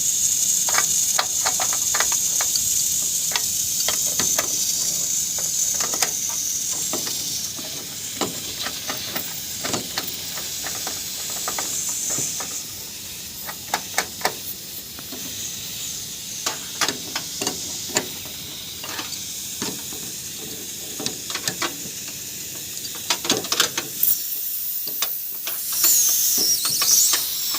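Refrigerant gas hissing out of a leak in an air conditioner's line: a steady high hiss that weakens after about twelve seconds and swells again near the end, with scattered clicks and taps from handling the fittings.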